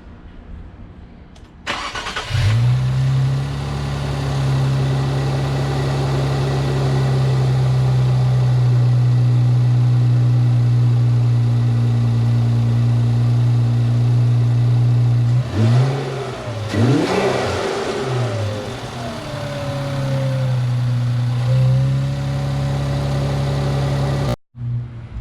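Infiniti Q50's twin-turbo 3.0-litre V6 with a muffler delete starting up about two seconds in and then idling steadily. Around the middle it is revved a few times, the pitch rising and falling, before it settles back to idle. The sound cuts off abruptly near the end.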